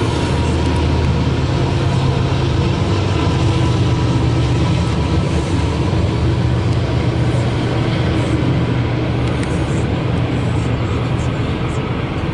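CSX ballast freight train rolling past: a loud, steady rumble of wheels on rail from the passing cars, easing off slightly near the end.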